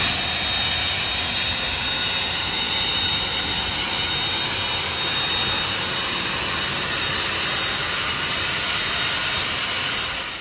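Jet engine running steadily, a loud even rushing noise with a thin high whine in it, fading out near the end.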